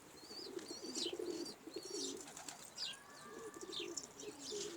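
Domestic pigeons cooing repeatedly, with short high chirps scattered through the cooing.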